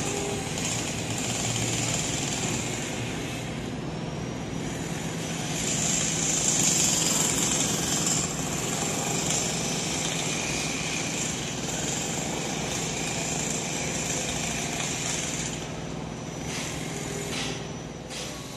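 Container freight wagons rolling past, a steady rattle and rumble of steel wheels on the rails with a high hiss over it.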